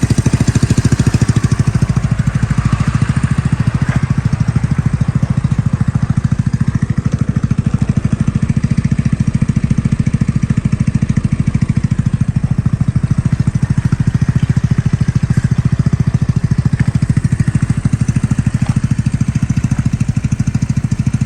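Engine of an Icebear three-wheeled motorcycle idling steadily with an even, unchanging beat.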